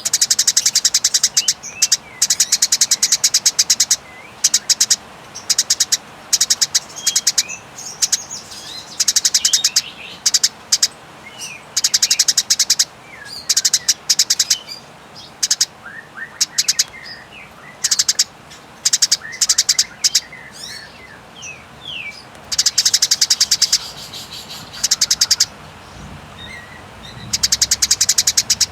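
Eurasian tree sparrows in aggressive 'fighting' chatter: long, very fast dry rattling trills in repeated bouts a second or two long, with short downslurred chirps between them.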